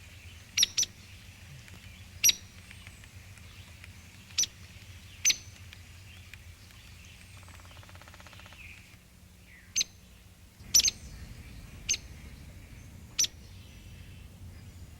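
Woodpecker giving short, sharp single-note calls, about nine scattered irregularly, over a faint low hum.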